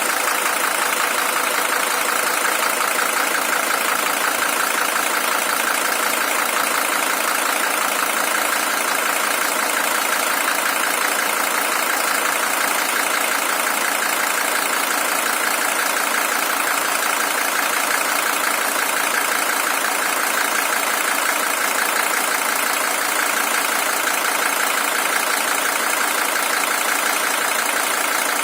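Mercedes-Benz OM617 five-cylinder diesel engine, original at 620,000 km, idling steadily with an even, unchanging run.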